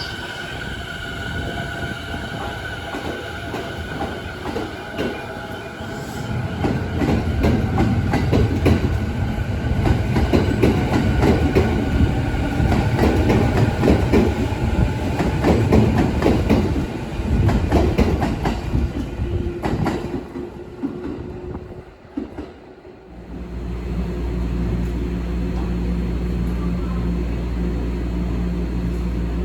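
Train wheels clattering over rail joints under a heavy rumble, loudest through the middle, then dying away about two-thirds through. A steady low electrical hum follows.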